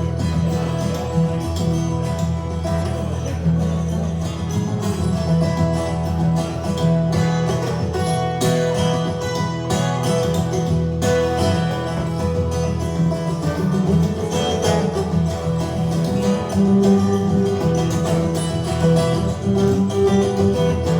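Live guitar music, an instrumental passage with no singing.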